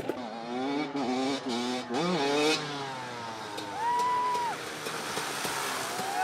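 Dirt-bike engines revving hard. In the first three seconds one bike accelerates, its revs climbing with short breaks at the shifts. Then a bike is held at high revs for about a second in the middle, and another near the end.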